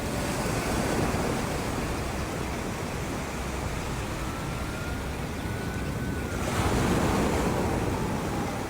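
Wind and sea noise: a steady rush of waves with wind on the microphone, swelling about seven seconds in, with faint thin tones drifting above it.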